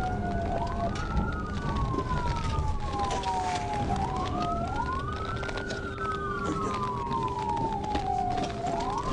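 Police sirens on a wail setting, each rising quickly and falling slowly every three to four seconds, with two wails overlapping out of step. A steady rumble of engine and road noise runs underneath.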